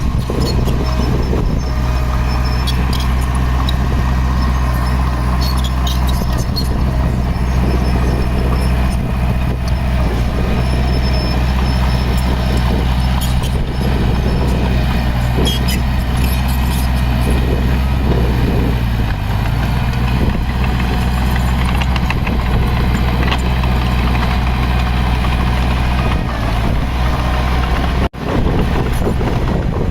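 Heavy earthmoving machine's diesel engine running steadily under load, with scattered metallic clanks and clicks over it. The sound drops out briefly near the end.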